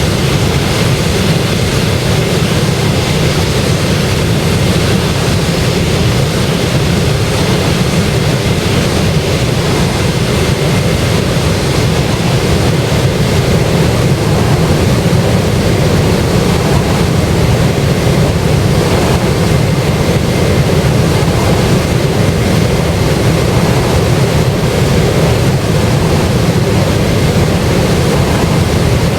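Steady, loud rumble and roar of a Boeing 737-800's CFM56 jet engines, unchanging throughout.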